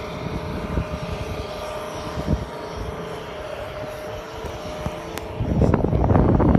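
Steady drone inside a moving car's cabin, engine and road noise with a faint steady hum over it. A louder low rumble swells in near the end.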